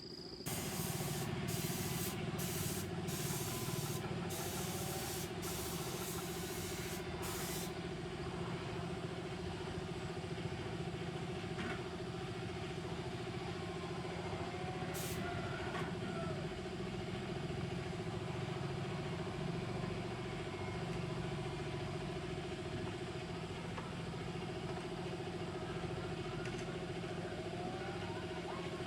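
A motor starts just after the beginning and runs steadily at an even pitch. Over it come a series of short, sharp hissing bursts of air or spray during the first eight seconds.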